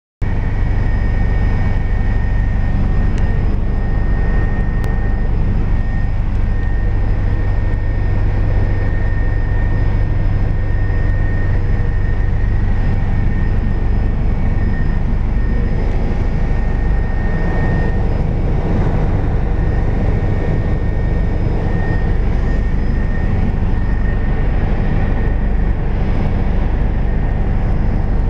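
Helicopter cabin noise during flight: the engine and rotor run loud and steady, with a constant high whine over a heavy low drone.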